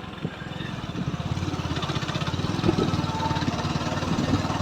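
Motorcycle engine running on the move, a fast, even exhaust pulse that grows a little louder over the first second or so and then holds steady, with wind and road noise over it.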